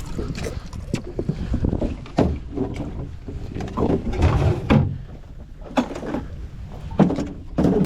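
Irregular thumps and knocks of handling aboard a small inflatable fishing boat, about one a second, over a low steady rumble.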